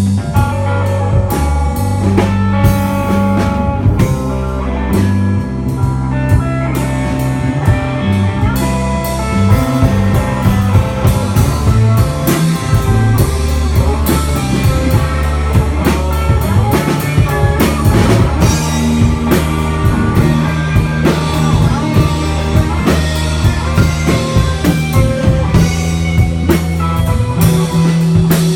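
Instrumental rock trio playing live: electric guitar over a steady bass line and a full drum kit, with dense drum hits throughout.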